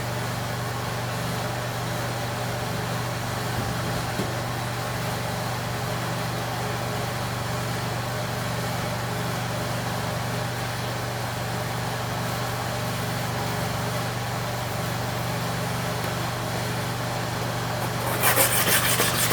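A steady mechanical hum, like a fan or air conditioner running. Near the end, a clipper blade starts being rubbed back and forth on a sharpening stone in quick, rhythmic strokes.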